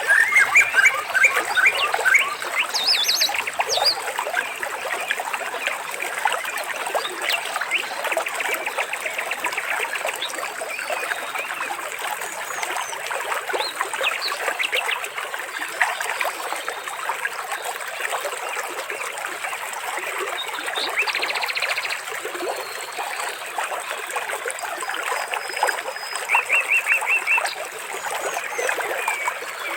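Water trickling steadily, with birds chirping and trilling over it; a quick run of repeated notes comes near the end.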